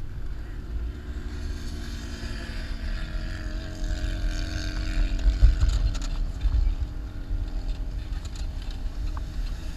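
Jeep engine running under load while driving over sand dunes, heard from inside the vehicle, with low rumble and wind buffeting the microphone; it grows louder about five seconds in.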